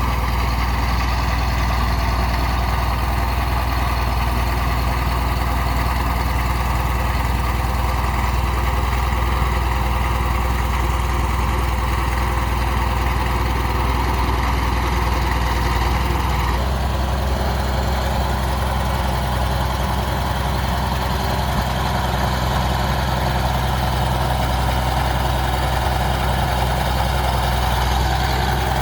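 Bulldozer's diesel engine running steadily with a deep drone, its note changing abruptly about two-thirds of the way through.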